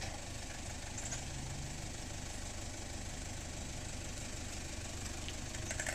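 Toyota Land Cruiser Prado's engine idling steadily as the 4WD creeps forward down a rock step at a crawl.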